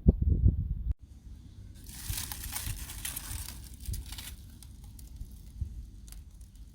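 Crinkling of the wrapping around a campfire-baked sweet potato as it is handled and peeled open, loudest from about two to four seconds in, over a low rumble.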